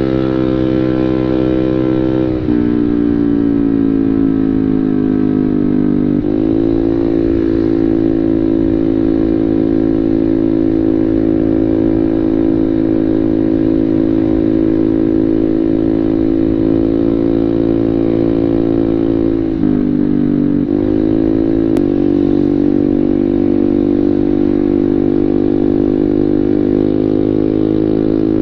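Motorcycle with a Medwick Samlong-style full-system aftermarket exhaust (drilled baffle, 38 mm inlet) running at mid-range rpm on the road, giving a loud, steady exhaust note. The engine pitch drops and climbs back a few times: about two seconds in, about six seconds in, and around twenty seconds in.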